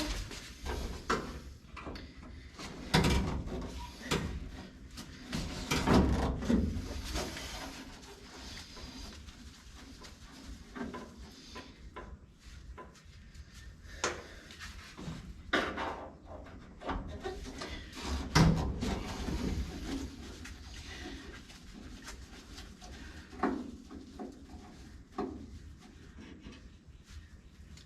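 Irregular clunks, knocks and scrapes of metal window hardware and glass frame being worked loose and pulled out of a 1955 Chevy 210 door. The heaviest clatter comes a few seconds in and again about two-thirds of the way through, with lighter taps between.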